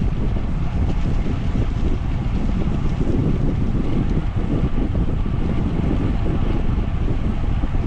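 Wind buffeting the microphone of a moving bicycle rider, a steady low rumble that holds level throughout.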